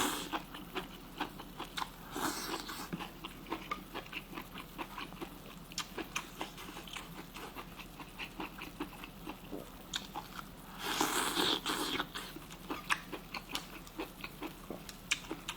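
Close-up chewing of blanched white beef tripe (omasum) from hot pot: a steady run of small crisp crunches. Two louder stretches of mouth noise come about two and eleven seconds in.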